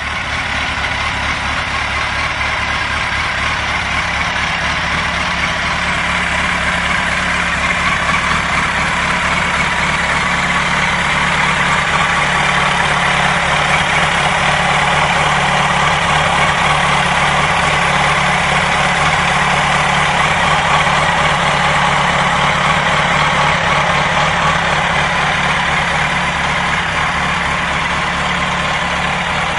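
2004 Yamaha R1's inline-four engine idling steadily.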